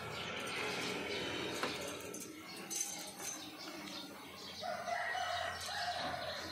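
A bird splashing and flapping its wings while bathing in water, with a rooster crowing once, held for about a second and a half, near the end.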